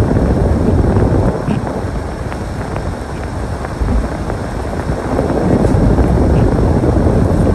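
Storm wind gusting across the microphone, a loud low rumble that eases about a second in and builds again past the middle.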